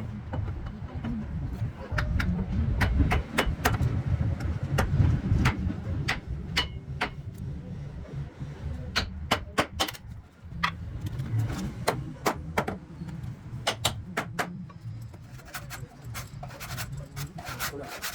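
Irregular sharp knocks and taps, some in quick clusters, over a steady low rumble.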